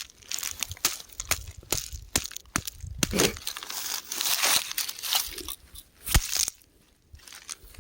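Rocks crumbling: a dense, irregular run of crunching and crackling. A single sharp crack stands out a little after six seconds, followed by a brief lull.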